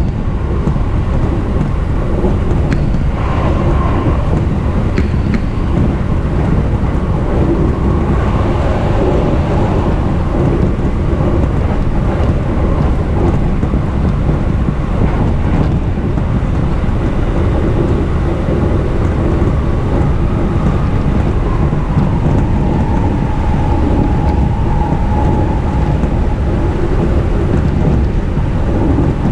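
Cabin noise of a JR East E233 series electric commuter train running between stations: a steady rumble of wheels on rails, with a faint whine at times.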